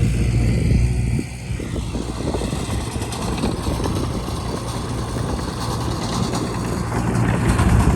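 Bulldozer's diesel engine running under load. Its steady low note drops back about a second in, with dense clatter over it, then comes up strongly again near the end.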